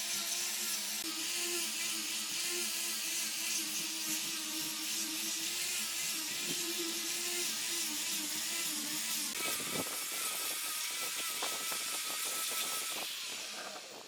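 An electric power tool running steadily against wood, a high whine over a hissing grind. About nine and a half seconds in its pitch changes with some rattling, and it winds down near the end.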